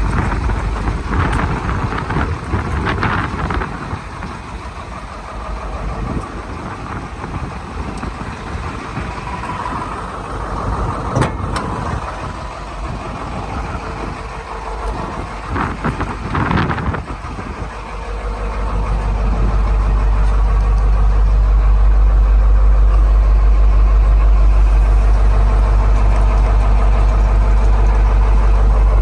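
Detroit Diesel 8.2L V8 in a 1985 GMC 7000 truck running, with a few knocks and uneven noise at first. About two-thirds of the way in it settles into a louder, steady low idle drone.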